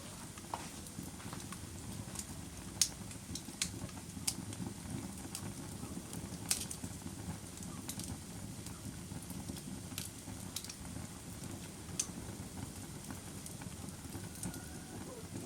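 Bonfire burning: a steady low rumble of flames with sharp, irregular pops of crackling wood every second or two.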